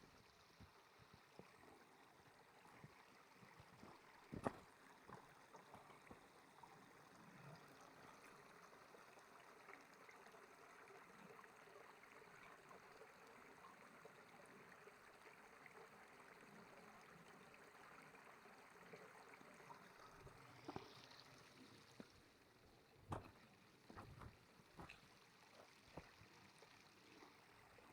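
Near silence: a faint steady hiss with a few scattered sharp clicks and knocks, the loudest about four seconds in and a cluster near the end.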